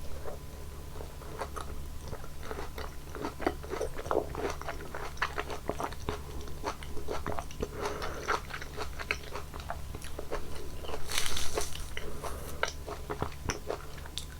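Close-miked eating of fruit: wet biting and chewing with many small clicks and crunches, and a louder crunchy bite lasting about a second near eleven seconds in.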